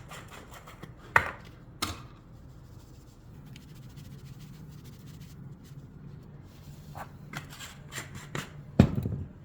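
Workshop knocks and clatter: two sharp knocks about a second in, a run of lighter taps later, and a louder knock near the end, over a faint steady hum.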